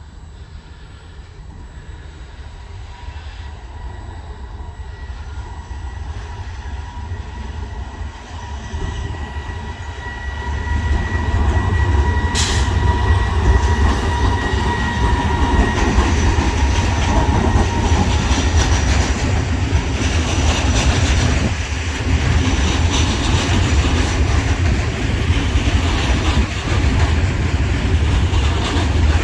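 A train approaching and passing close by. Its rumble builds over about ten seconds and then stays loud as it runs past. A thin high whine sounds as it approaches, and there is one sharp click about twelve seconds in.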